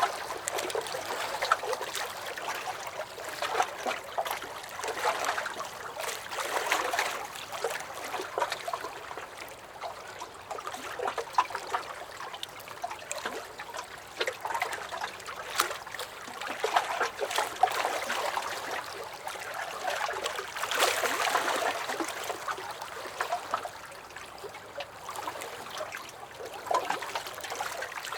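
Small lake waves lapping and sloshing against a wooden dock, an uneven run of little splashes and trickles that swells and eases every few seconds.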